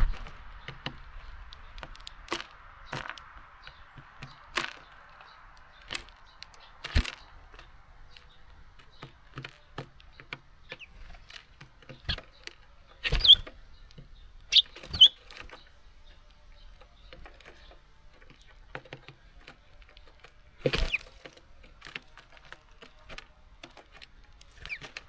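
Irregular taps and knocks of small birds landing on a garden seed feeder and pecking at seeds, with a couple of short high chirps about halfway through.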